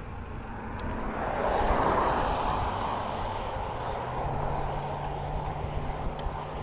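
A motor vehicle passing on the road, its tyre and engine noise swelling to a peak about two seconds in and then slowly fading, with a steady low hum from about four seconds in.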